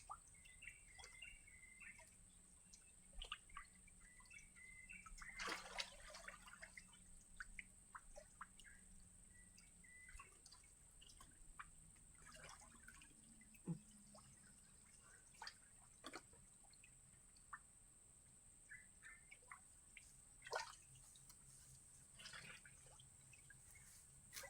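Faint, scattered small splashes and drips of shallow muddy water, a dozen or so short ones spread out, in a drained fishpond.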